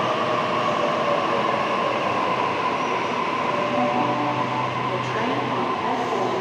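Passenger train running on the rails: a steady, even rumble of wheels and running gear with faint steady tones over it.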